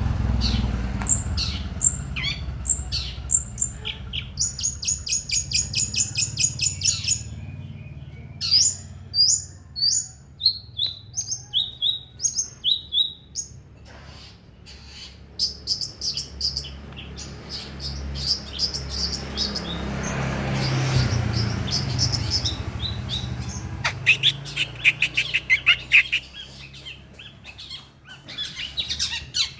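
Long-tailed shrike singing: runs of sharp, high chirps and quick trills broken by single loud notes, with a steady low rumble underneath.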